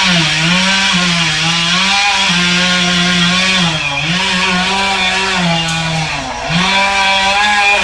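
Chainsaw running at high speed while cutting wood. Its pitch sags and recovers as the chain loads up, and it drops briefly about four seconds in and again about six and a half seconds in.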